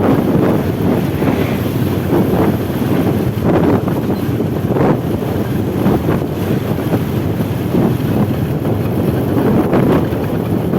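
Road traffic running past, a steady low rumble of engines and tyres, with wind buffeting the microphone.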